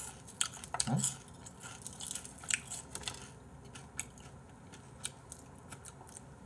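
Close-miked chewing of fried chicken: soft mouth sounds with scattered short, sharp clicks and ticks.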